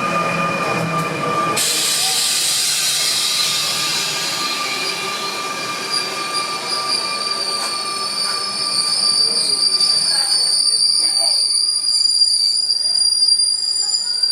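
A passing train's wheels squealing in two steady high tones over the rumble of the rail cars. The squeal gets louder about nine seconds in.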